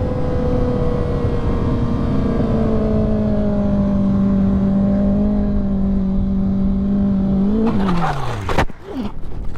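Motorcycle engine running at a steady high pitch under wind rush, its note sinking slowly. Near the end the engine note drops steeply within a noisy burst, then the sound cuts off abruptly.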